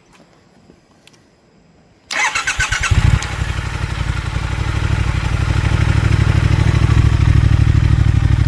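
2020 Triumph Speed Twin 1200's parallel-twin engine started on the electric starter about two seconds in: a second of cranking, then it catches and settles into a steady, even idle.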